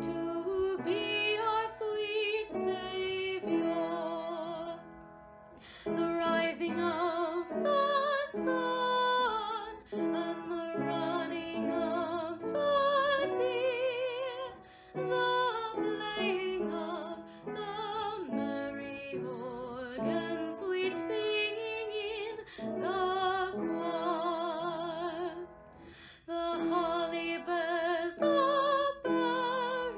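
Women singing a Christmas carol, with vibrato on the held notes and short breaths between phrases.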